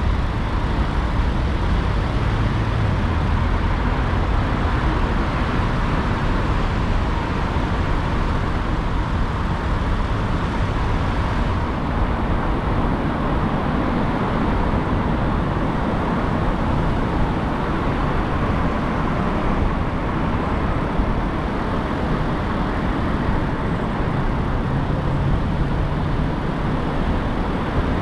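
Steady road noise of a car driving through city traffic: an even, deep rumble of tyres and engine with a light hiss over it.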